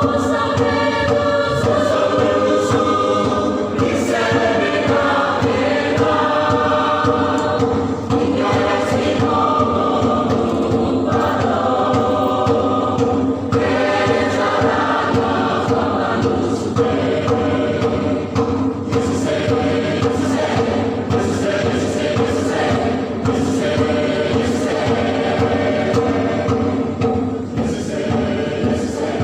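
Mixed church choir singing a hymn together, with sustained chords from many voices.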